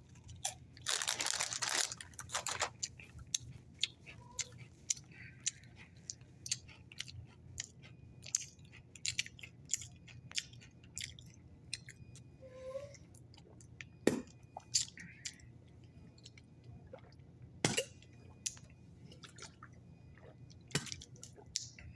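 A person crunching and chewing a Doritos tortilla chip, loud for the first few seconds, then quieter chewing with scattered clicks and smacks. Later come mouth and swallowing sounds as he drinks from a bottle.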